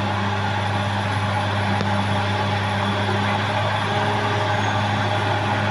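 Caterpillar D6R XL bulldozer's diesel engine running steadily, its pitch and loudness unchanged throughout.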